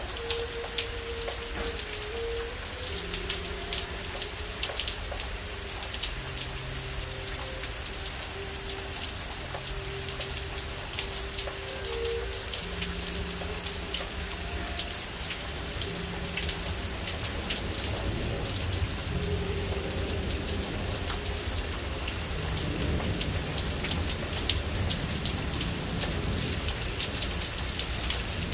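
Steady rain falling on trees and ground, with many separate drops tapping close by, over a low rumble that grows a little louder in the second half.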